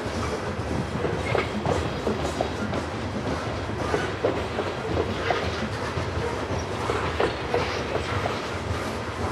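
Loaded coal hopper cars of a heavy freight train rolling slowly past. The steel wheels make a steady rumble on the rails, with many irregular clicks and knocks.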